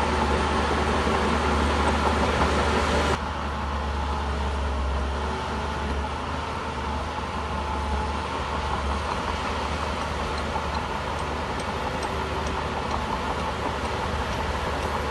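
Heavy diesel engine of a Shantui bulldozer running steadily under work, with a constant low drone. The sound drops suddenly in level about three seconds in and then carries on steadily.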